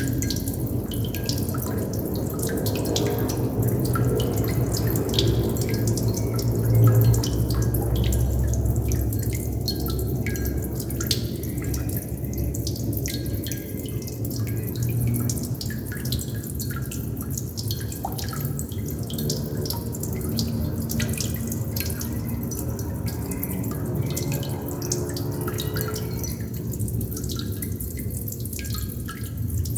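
Water droplets dripping in quick irregular succession, many small sharp plinks over a steady low rush of water.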